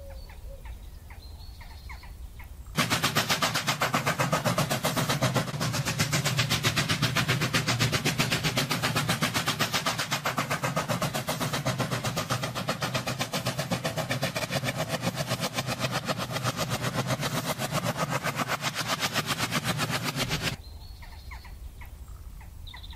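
Freight train cars rolling past close by, the wheels clacking rapidly and evenly over the rail joints; the clatter starts suddenly about three seconds in and cuts off about two seconds before the end, leaving a low steady hum.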